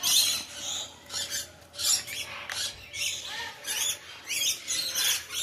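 A flock of lorikeets chattering: many short, harsh, scratchy high-pitched screeches overlapping in quick irregular succession.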